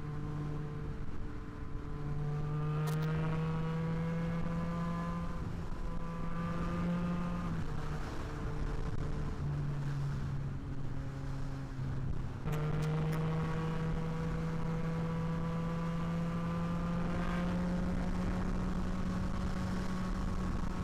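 Yamaha MT-09 SP's inline-three engine through a Blackwidow aftermarket exhaust, pulling steadily under way with its pitch slowly climbing. The revs drop about eight seconds in and jump back up after about twelve seconds.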